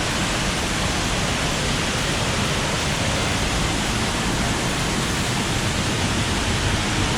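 Water pouring over a large waterfall: a loud, steady rush with no breaks.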